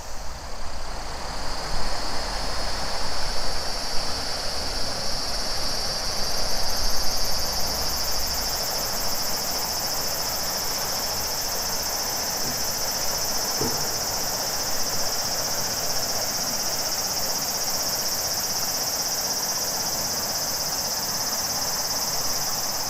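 Cicadas buzzing in a steady chorus that strengthens about six seconds in, over the even rush of a flowing river. A low rumble runs under it for the first third or so, then stops.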